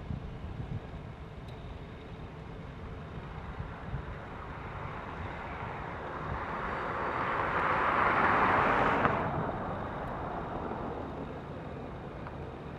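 A vehicle passing, heard as a rushing noise that builds for a few seconds, peaks about two-thirds of the way through and then falls away, over a steady low rumble.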